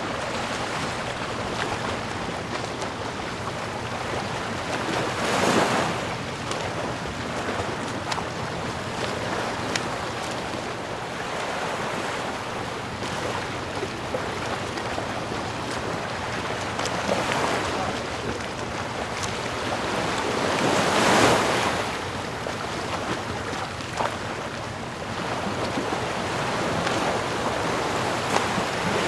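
Sea waves washing onto a shore: a steady wash of surf with waves swelling up and breaking, the loudest about five seconds in and again about twenty-one seconds in.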